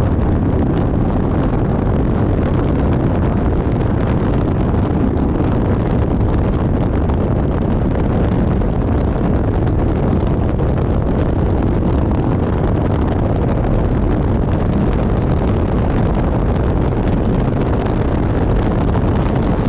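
Loud, steady roar of the Velo de la Novia waterfall, thick with low rumble from wind buffeting the microphone.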